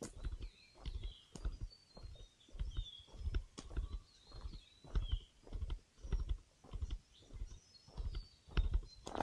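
Footsteps walking on a forest trail, about two steps a second, with small birds calling and chirping in the background.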